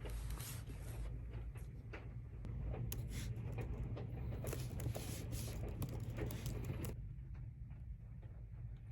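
Faint rustling and light clicks of something being handled, over a steady low hum; the rustling stops abruptly about seven seconds in.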